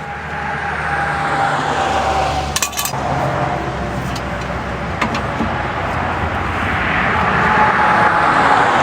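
Motor-vehicle noise that swells, dips and swells again, like traffic going by, with a couple of sharp clicks.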